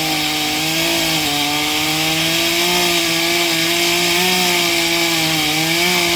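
Gas two-stroke chainsaw running at high revs while cutting through a tree trunk, its engine note steady with small dips in pitch as the chain bites into the wood.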